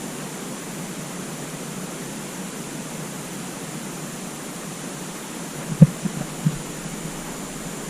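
A steady hiss, with a sharp thump about six seconds in and a few softer knocks just after it.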